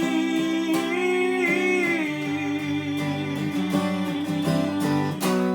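Acoustic guitar accompaniment to a slow folk ballad, with a sung note held with vibrato over the first two seconds before the guitar carries on alone.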